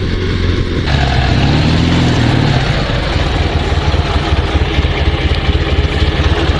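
Dnepr 16 sidecar motorcycle's flat-twin engine running, its pitch rising and falling back about a second in, then settling into a steady, even low beat. The engine has been faltering, which the owner puts down to a fuel supply problem.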